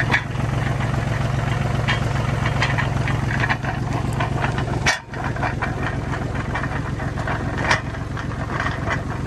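Tractor engine running steadily, with scattered clanks and rattles over it and a brief drop about halfway through.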